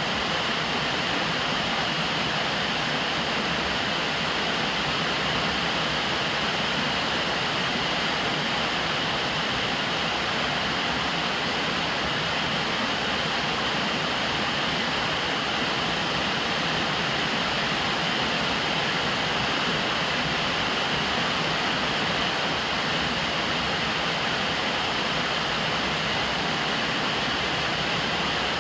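Steady rain falling on a roof, an even hiss with no distinct drops, thunder or breaks.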